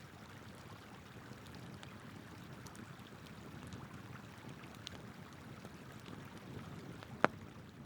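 River water flowing steadily under a wood campfire crackling with small scattered pops, and one loud sharp pop from the burning wood near the end.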